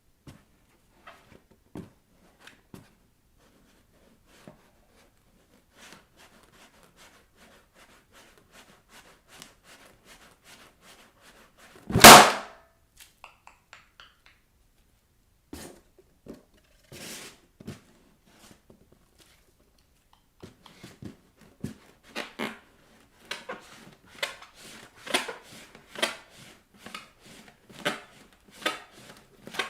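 Bare feet tapping and rubbing on inflated rubber balloons, a run of faint scattered taps and scratches; one balloon bursts with a single loud bang about twelve seconds in. The tapping and rubbing gets denser and louder over the last third.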